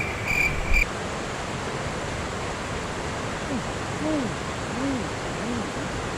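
An insect chirping in quick, even pulses for about the first second. Then the steady rush of a fast-flowing shallow river, with a few short, low rise-and-fall tones around the middle.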